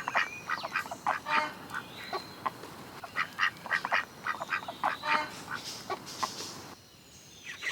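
Ducks quacking in runs of short, rapid calls, which stop about seven seconds in.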